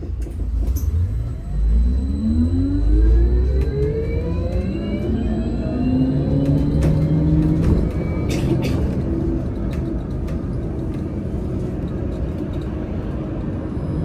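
VMZ Avangard trolleybus's electric traction drive whining as it accelerates, rising in pitch over the first few seconds and then holding steady, over the low rumble of the ride heard from inside the cabin. A brief hiss comes about eight seconds in.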